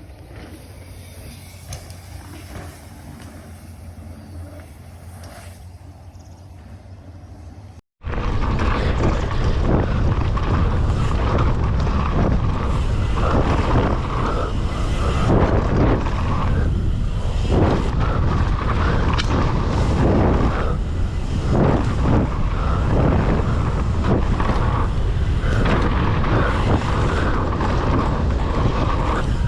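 Wind buffeting the camera's microphone and mountain bike tyres rumbling over dirt during a fast run down a jump line, loud and gusting. It cuts in suddenly about eight seconds in, after a quieter stretch with a low steady hum.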